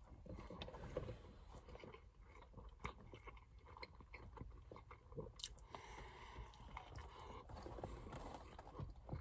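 A person chewing a mouthful of Whopper burger, close to the microphone: faint, irregular small clicks and soft mouth sounds, with one sharper click about halfway through.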